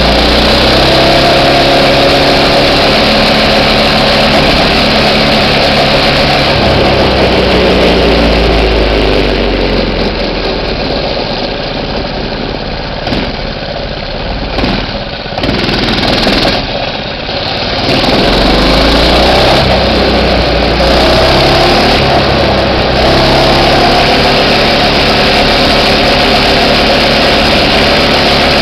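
Minibike's small engine running under a rider, its pitch rising and falling as the throttle is opened and eased off. It grows quieter through the middle, then comes back loud and close.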